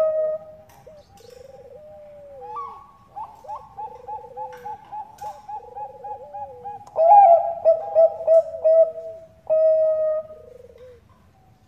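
Bangkok perkutut (zebra dove) cooing: quick runs of short, pitched coos about four a second, mixed with lower rolling trilled phrases, ending in a faint last note.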